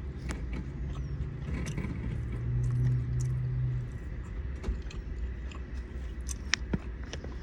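A person eating: chewing with small clicks and crinkles, over a steady low car rumble with a hum that swells about halfway through and then fades.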